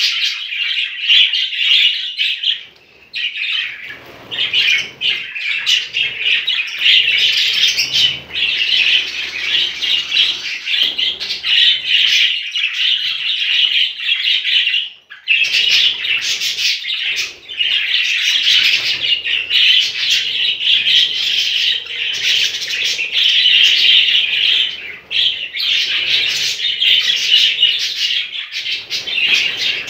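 A group of budgerigars chattering and chirping continuously, with short lulls about three seconds in and again around fifteen seconds.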